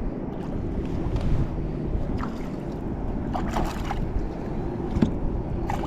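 Water splashing beside a kayak as a hooked bass is fought in, with several short splashes over a steady low rumble.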